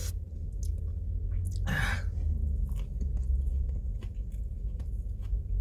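A person chewing food close to the microphone, with many small wet clicks, and one loud breath about two seconds in.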